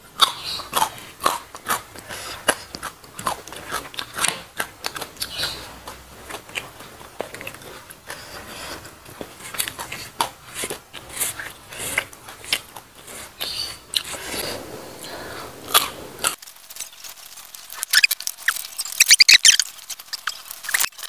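Close-miked chewing and wet mouth clicks of a person eating rice and fish by hand. About three-quarters of the way in, the low end drops away and a run of louder, sharper clicks follows.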